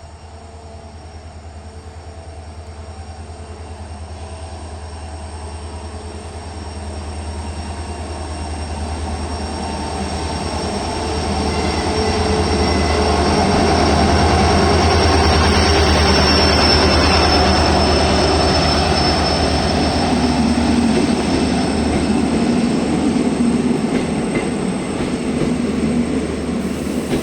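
A train approaching and running through the station, growing steadily louder to its loudest about halfway through, then easing off a little, with a steady low rumble underneath and a thin high whine from the wheels on the rails.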